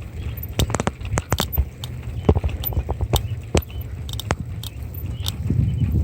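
Riding a bicycle: wind rumbling on the microphone, with many irregular sharp clicks and rattles, the rumble growing louder near the end.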